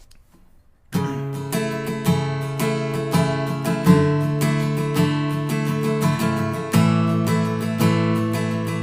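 Acoustic guitar strumming chords as the intro of a song, starting suddenly about a second in after near quiet.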